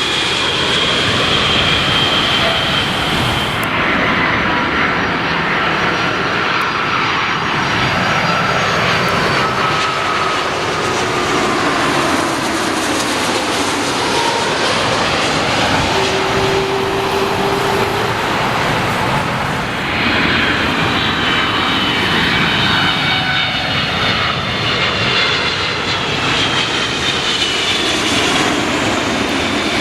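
Jet airliner engines running loud and close, a dense rush with high whining tones that slide in pitch. The sound changes abruptly about three and a half seconds in and again about twenty seconds in, each time to a different aircraft's engine sound.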